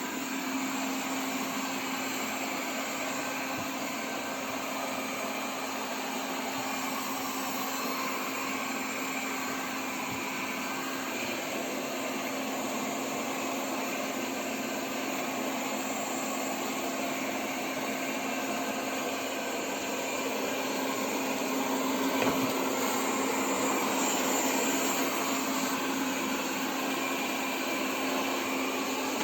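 Airzeen R7 robot vacuum running: a steady suction noise with a low hum, a little louder about three quarters of the way through.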